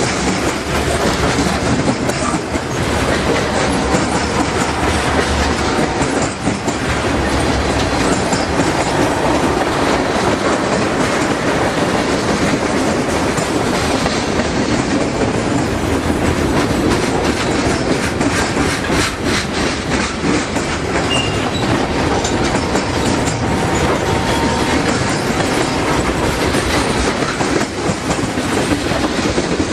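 Freight train cars rolling past on the rails: a steady rumble with the clickety-clack of wheels going over rail joints.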